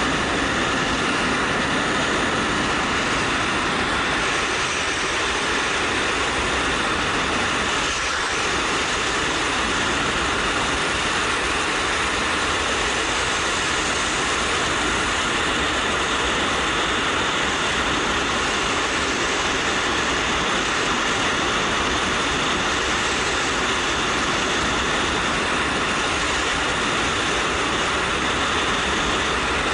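Steady wind rush over a helmet-mounted camera while riding a motorcycle at road speed, with the 2013 Suzuki GW250's parallel-twin engine running underneath.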